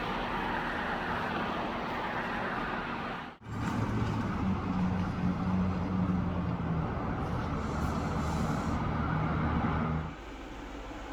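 Motor vehicle traffic: a steady road and engine noise, cut off briefly about a third of the way in, then a louder stretch with a low steady engine hum from a nearby vehicle that ends abruptly near the end.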